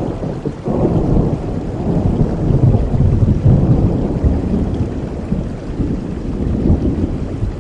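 A long roll of thunder over steady heavy rain. The rumble swells about a second in, is loudest in the middle and fades toward the end.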